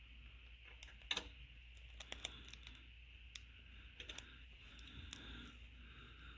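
Faint, scattered sharp clicks and light taps of hard objects, the sharpest about a second in, over a low steady hum.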